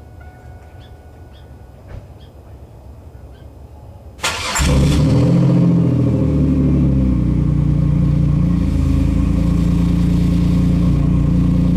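Chevrolet Camaro engine cranked by the starter, catching almost at once about four seconds in, briefly revving, then idling steadily. It is the first start after the fuel pump was rebuilt, a sign the pump is delivering fuel.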